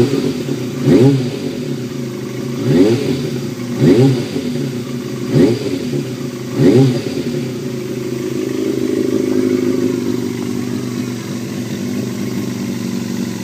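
Kawasaki ZRX400 inline-four motorcycle engine revved in about six short throttle blips, each rising and falling quickly, then settling to a steady idle for the second half.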